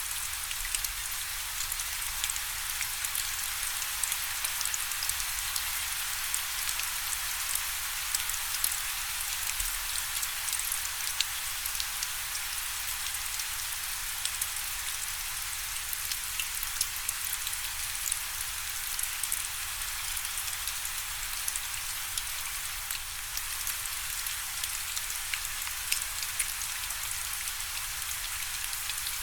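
Steady rain falling, a dense hiss with many small drops ticking close by.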